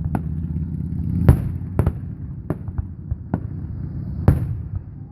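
Fireworks display: aerial shells bursting in about six sharp bangs spread over a few seconds, the loudest two about a second in and near the end, over a low rumble that eases off.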